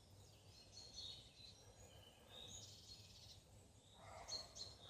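Faint, distant bird calls: scattered short, high chirps over quiet woodland background. A soft, broader noise comes in about four seconds in.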